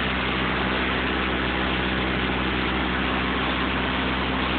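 Engine-driven water pump running steadily while pumping flood water, a constant low engine drone with an even hum.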